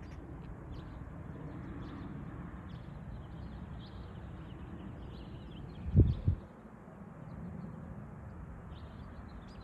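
Birds chirping intermittently over a steady low rumble, with two short, loud low thumps about six seconds in.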